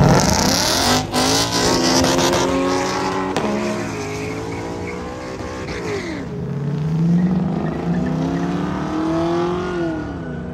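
Muscle car V8 engines revving hard and accelerating away, the pitch climbing and then dropping sharply at each gear change, about three times. Tire squeal comes in with the loud start.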